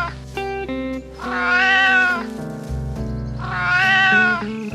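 Domestic cat meowing: two long meows about two seconds apart, each rising and then falling in pitch, with the tail of an earlier meow right at the start. Calm background music plays underneath.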